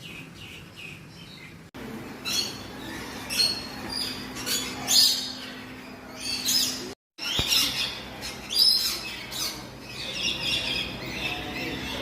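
Birds calling with repeated short, high chirps and squawks, the audio jumping abruptly twice where clips are joined.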